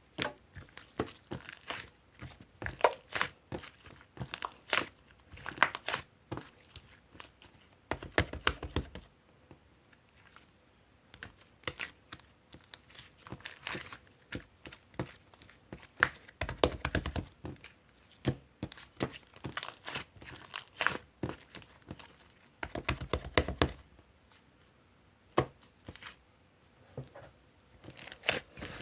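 Crinkling, crackling handling sounds in irregular bursts, with a few short low thuds.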